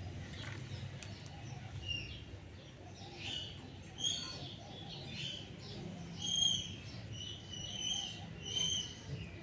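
Pet parrot making a string of short, high calls, the loudest about six and a half seconds in.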